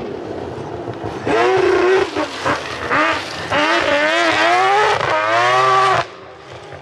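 Three-rotor Mazda RX-8 rally car's rotary engine at full throttle: loud from about a second in, its pitch climbing and dropping again and again as it revs up, lifts off and shifts. The sound falls away sharply near the end.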